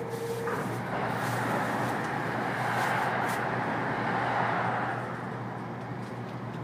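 Inside the carriage of a 485-series electric train running at speed: a steady rumble of wheels on rail that swells louder for a few seconds mid-way, over a low steady hum, with a steady tone that stops about half a second in.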